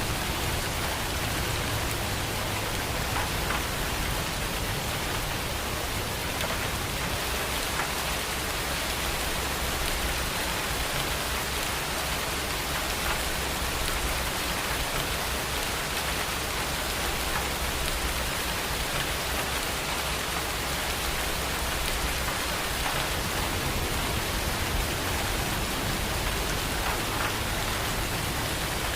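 Steady heavy rain, an even hiss with scattered drops ticking on a surface and a faint low rumble underneath.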